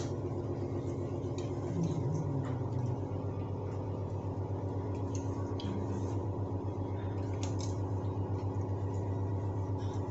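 A steady machine hum runs throughout, with a brief wavering in pitch about two seconds in. Light scattered clicks and knocks are heard as the plastic parts of a concealed toilet cistern are refitted.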